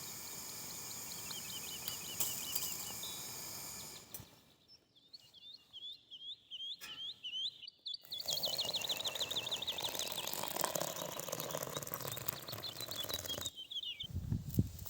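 Small songbirds singing: runs of short, repeated chirps and, from the middle on, a long fast trill, over a steady outdoor hiss that changes abruptly a few times.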